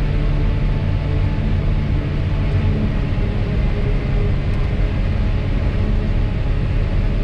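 Tractor engine running steadily under load, a constant low drone heard from inside the cab.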